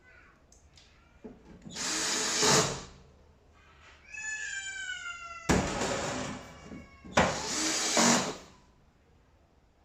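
A cat gives one long meow that falls slowly in pitch, about four seconds in. Before and after it come three loud bursts of hissing noise.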